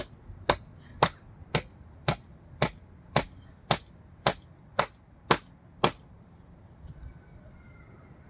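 Hammer striking timber in a steady run of about a dozen blows, roughly two a second, stopping about six seconds in.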